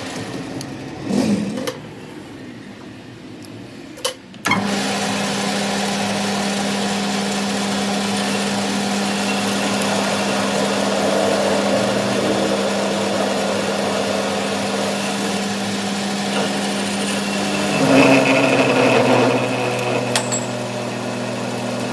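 A motor-driven machine starts about four and a half seconds in and runs with a steady hum, louder for a couple of seconds near the end.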